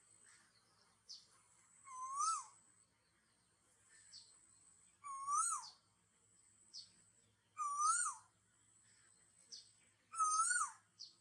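A bird calling four times, about every two and a half seconds: a note that rises and then drops, each call pitched a little higher than the last, with short faint higher chirps in between.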